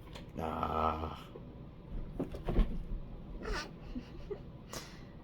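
A brief hummed or moaned vocal sound from a person, followed by a few soft clicks and rustles of trading cards being handled.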